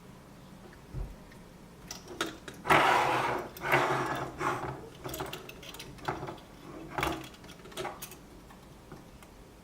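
Bench work on a refrigerator control board: a run of rustling and scraping with several sharp knocks and clicks, loudest a few seconds in.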